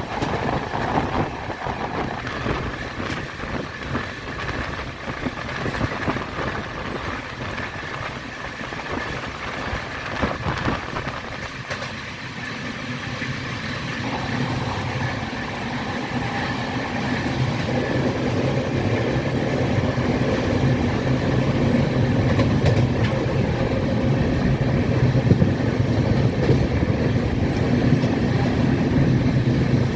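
Train running along the track, a steady rumble that grows louder from about halfway through.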